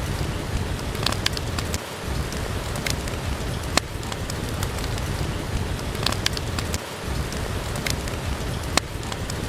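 Steady rain falling, with sharp crackles and pops of a wood fire in a fireplace at irregular moments, the loudest about four seconds in and near the end.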